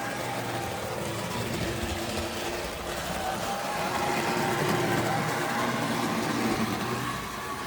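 Tri-ang model locomotive running on the track, its electric motor giving a steady whine that rises slightly in pitch in the second half.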